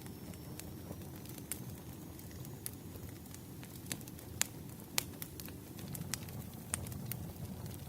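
Wood fire burning: a steady low rumble with irregular sharp crackles and pops, the two loudest pops about four and a half and five seconds in.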